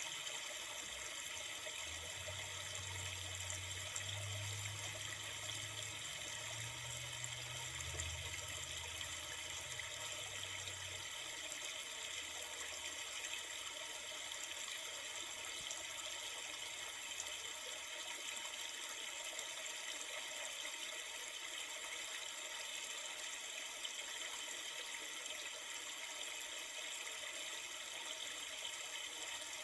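River water flowing steadily, an even continuous rush. A low hum sits underneath during roughly the first ten seconds, then fades out.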